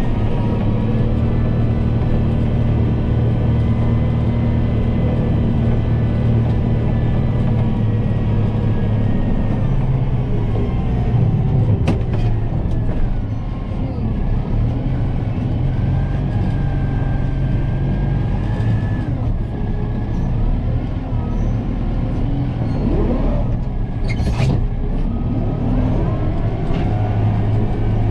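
Kubota M7060 tractor's four-cylinder diesel engine running steadily at working speed, its pitch shifting and sliding about ten to fourteen seconds in before it settles again. There are a couple of sharp knocks, near the middle and near the end.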